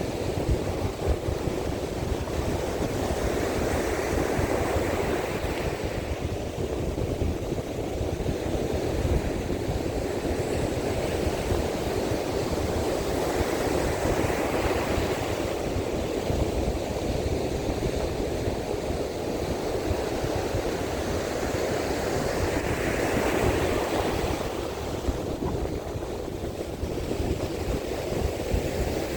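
Heavy surf breaking on a sandy beach in strong monsoon wind, a continuous wash that surges every few seconds as waves break. Wind rumbles on the microphone throughout.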